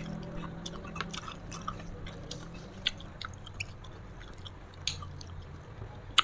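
Close-up chewing of food with wet mouth sounds and scattered small crisp clicks and crunches, a sharper click right at the start and again at the end.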